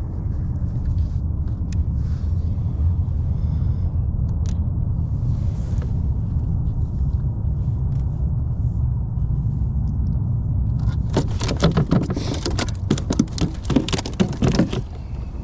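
Steady low wind rumble on the microphone. Starting about eleven seconds in, a rapid run of loud clattering knocks and rattles lasts around four seconds as a just-landed spotted bay bass is handled on the kayak.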